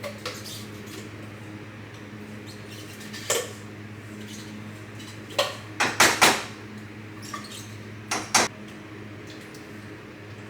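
Scattered clinks and knocks of pots and kitchen utensils: one about three seconds in, a quick group of three about halfway, and two more near the end. A steady low hum sits underneath.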